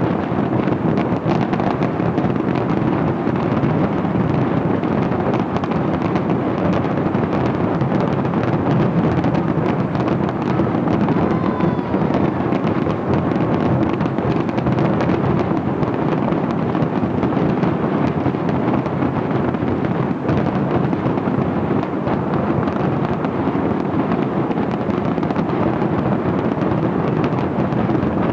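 Large fireworks display going off in a continuous barrage, many bangs and bursts overlapping with no let-up.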